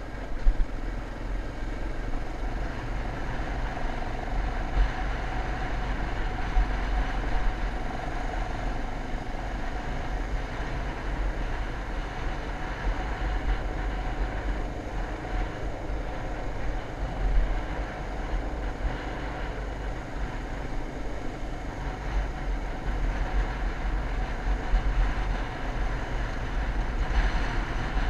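Motocross bike engine running while riding, with heavy wind buffeting on the microphone.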